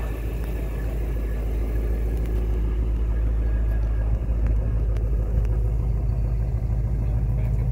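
2016 Shelby GT350R's 5.2-litre flat-plane-crank V8 idling, a steady low exhaust rumble that grows a little louder over the first few seconds.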